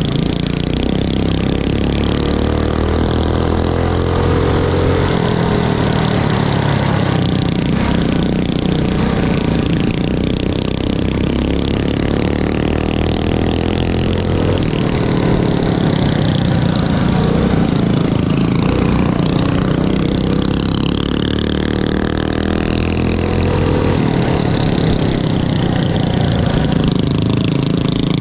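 Mini bike engines running hard during a race, the engine note rising and falling with the throttle without a break.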